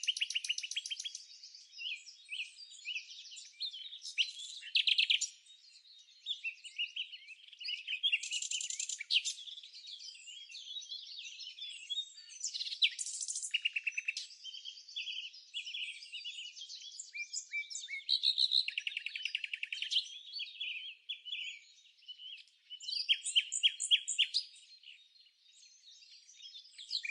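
Songbirds singing: overlapping high-pitched chirps, quick trills and fast runs of repeated notes, coming in bouts with short pauses between them.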